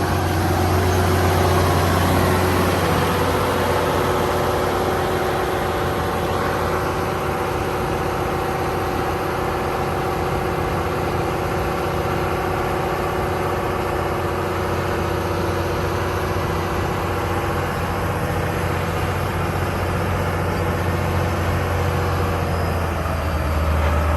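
Case Quadtrac tractor's diesel engine running steadily under load as it works the pulling track's dirt, a deep even drone with held tones above it.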